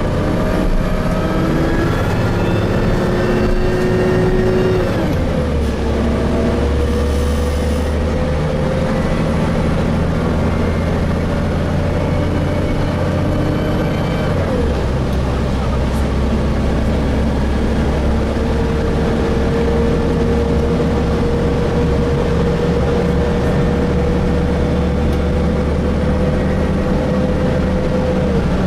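Gillig Phantom transit bus under way, heard from inside: the diesel engine and Voith automatic transmission pulling with a whine that climbs slowly, then drops sharply at a gear change about five seconds in, again about fourteen seconds in, and near the end.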